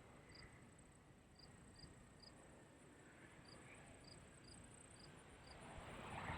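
Faint field crickets chirping in short pulses, over a steady high insect trill and a low background rumble; a hiss starts to build near the end.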